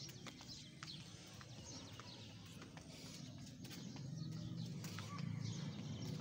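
Birds chirping outdoors, short calls that each drop in pitch, repeating over a low rumble that grows louder in the second half, with scattered sharp clicks.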